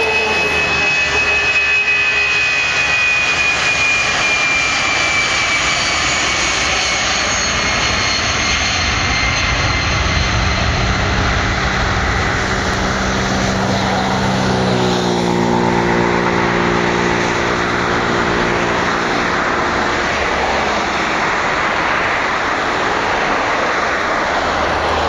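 Airbus A319-111's twin CFM56 turbofan engines as the jet passes on departure: a loud, steady roar with a high whine that falls slowly in pitch. From about twelve to twenty seconds in, a run of low tones drops together as the aircraft goes by.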